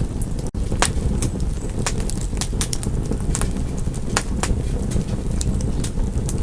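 Wood fire crackling in a fireplace: a steady low rumble of the flames with sharp, irregular pops and snaps several times a second. There is a momentary dropout about half a second in.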